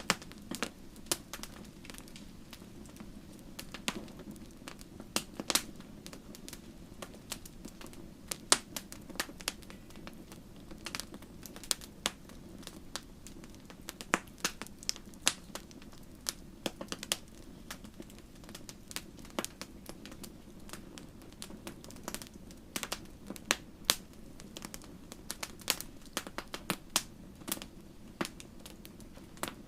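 Wood fire burning in a fireplace: irregular sharp crackles and pops, some louder than others, over a steady low rush of the flames.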